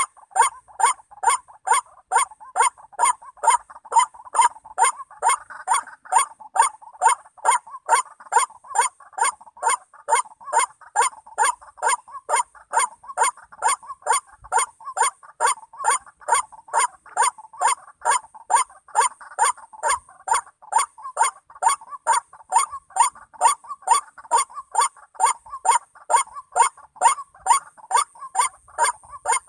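White-breasted waterhen call: a short 'kru-ak' note repeated over and over at an even pace, about two to three a second, without a break.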